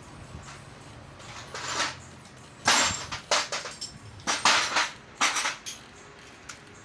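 Metal tools and engine parts clanking and rattling against each other: about half a dozen sharp clanks over a few seconds, while a timing-chain roller is fitted by hand.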